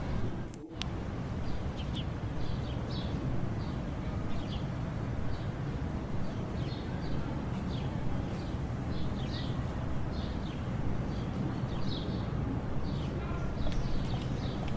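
Small birds chirping in short high calls every half second or so over a steady low rumble of background noise.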